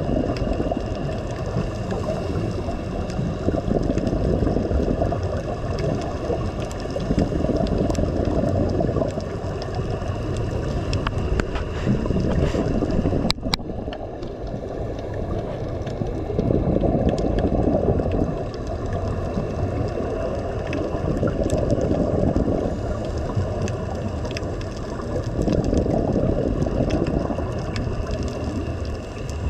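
Sea water sloshing and surging, a low rushing noise that swells every few seconds, over a faint steady high whine.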